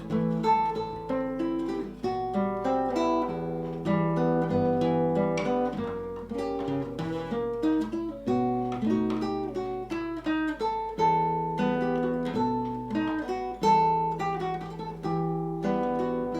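Solo acoustic guitar playing a gypsy-style piece: plucked melody notes over held bass notes, with strummed chords mixed in.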